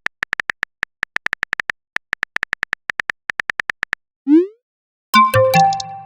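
Phone-keyboard typing clicks in quick runs for about four seconds, then a short rising pop as a message is sent, and a multi-tone chat notification chime about a second later.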